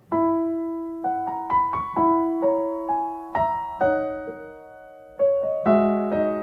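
Solo piano playing a slow, gentle melody of single notes and chords, each struck note ringing and fading; the playing grows fuller with chords about five seconds in.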